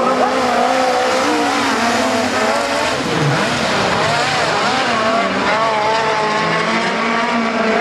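Several midget race cars running together on a speedway, their engine notes rising and falling as they accelerate and lift around the track.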